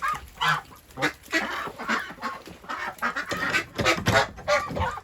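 Domestic ducks quacking loudly and repeatedly, several calls overlapping in quick succession.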